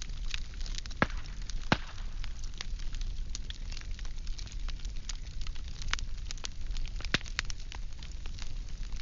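Wood fire burning with dense, irregular crackling and popping over a low steady rumble; two louder pops come about a second in and shortly after, and another near the end.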